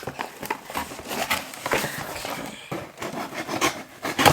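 Cardboard box and packaging being opened and handled by hand: a busy run of rustling, rubbing and scraping, with a sharp louder click near the end.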